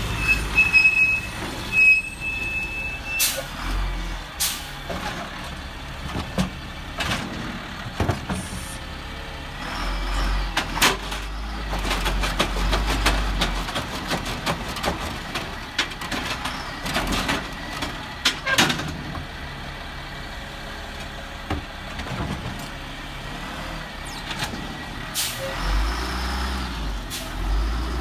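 Garbage truck at work: the diesel engine running and revving up in two stretches, with many sharp clanks and bangs of metal and bins. A short high-pitched beeping, like a backup alarm, sounds in the first few seconds.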